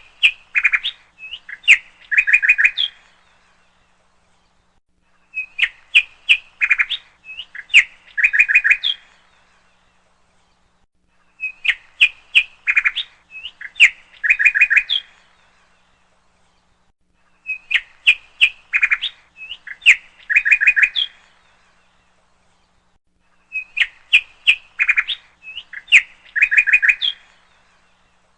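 Bird chirping in a quick run of sharp tweets lasting about three seconds. The identical phrase repeats five times, about every six seconds, with dead silence between, the mark of a looped bird-sound clip.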